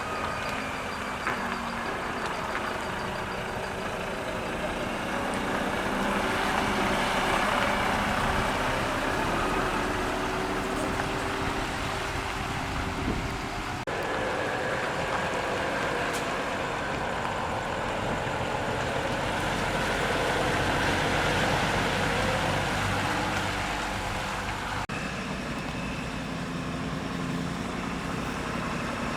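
Large truck engines running steadily, the sound changing abruptly twice.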